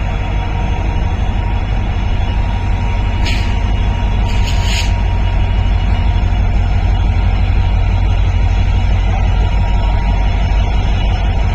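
WDP4D diesel-electric locomotive running with a deep, steady rumble, its EMD 16-cylinder two-stroke engine working. Short hisses of air are let off about three seconds in and again about a second later.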